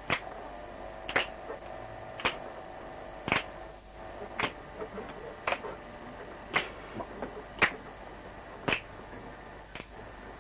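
A steady beat of sharp clicks, about one a second and very evenly spaced, with fainter knocks and rustles between them.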